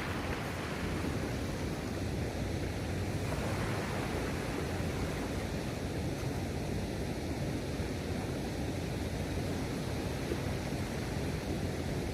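Steady seaside ambience: a continuous, even wash of waves and wind with no distinct events.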